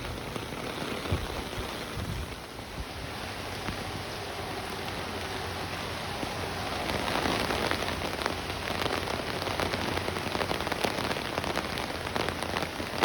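Steady rain from a tropical-storm rain band pattering on surfaces, with many close drop hits, growing heavier about halfway through.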